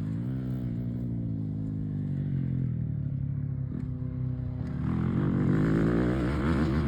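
Yamaha YZ250F dirt bike's four-stroke single-cylinder engine under way. The revs drop at the start and hold lower and steady for a few seconds. About five seconds in they climb again as the throttle opens.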